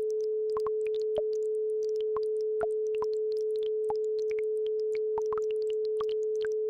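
A steady pure tone at about 432 Hz, with the faint, irregular plinks and trickle of a babbling brook beneath it.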